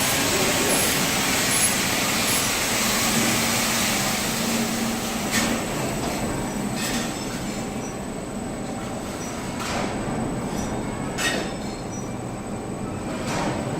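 Anti-skid gripped belt conveyor running: a steady mechanical rumble with a constant high whine, and a few sharp knocks in the second half.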